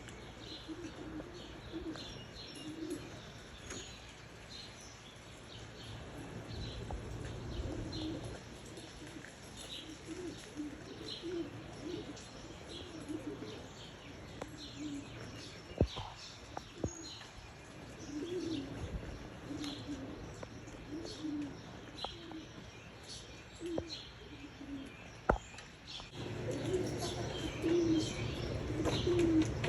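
Tippler pigeons cooing over and over, a low warbling coo every second or so, with short high chirps over it and a couple of sharp knocks.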